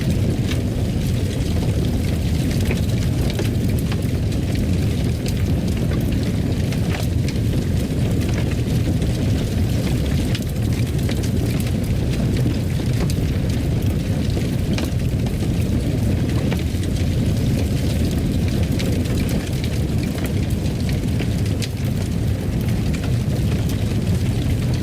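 Fireplace burning: a steady low rumble of the fire with frequent small crackles and pops scattered throughout.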